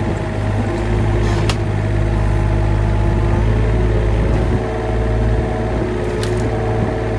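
Heavy equipment engine running steadily with a strong low hum, with two brief sharp knocks about a second and a half in and again near the end.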